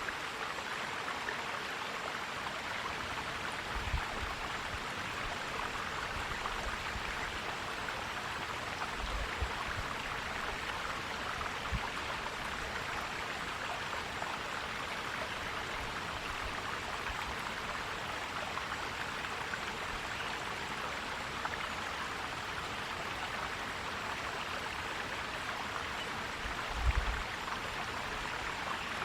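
Forest stream flowing and gurgling steadily, with a few brief low thumps, the strongest near the end.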